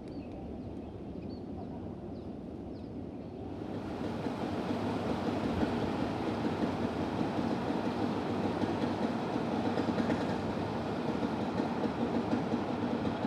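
Steady low outdoor rumble with a few faint bird chirps, swelling about three and a half seconds in into a louder, steady rushing noise of a large vehicle passing close by.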